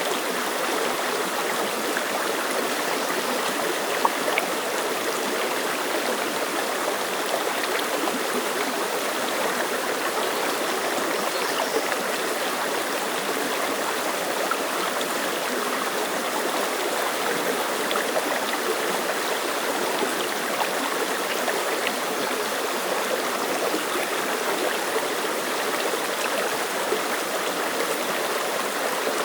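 Clear mountain stream flowing over rocks, a steady close-up rush and babble of water with small splashes and drips scattered through it.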